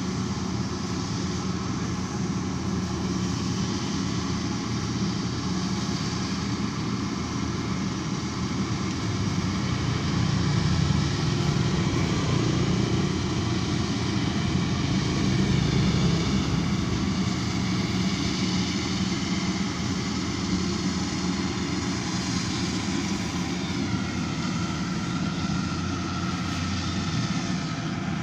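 Rice combine harvester running steadily, its engine drone a little louder for several seconds midway.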